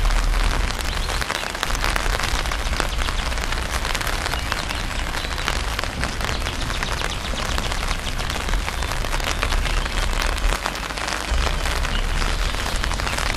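Torrential rain falling: a steady, dense patter of many drops close to the microphone, with a low rumble underneath.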